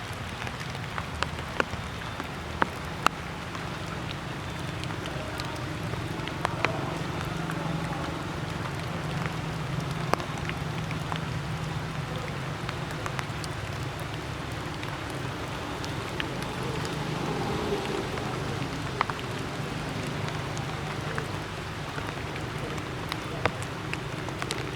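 Water dripping and pattering after rain: scattered, irregular drops over a steady hiss, with a low steady hum underneath.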